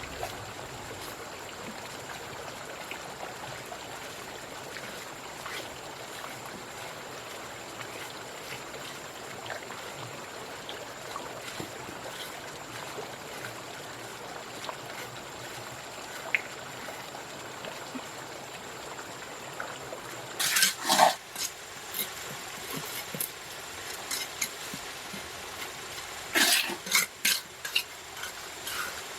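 A steady hiss like trickling water, broken by two clusters of sharp knocks, the first about two-thirds of the way through and the second near the end.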